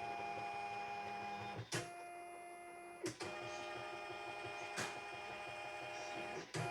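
CNY computerized embroidery machine's stepper motors moving the hoop frame during an area check, tracing the outline of the design. A steady motor whine comes in four stretches of about a second and a half, with a click and a change of pitch at each corner where the hoop changes direction.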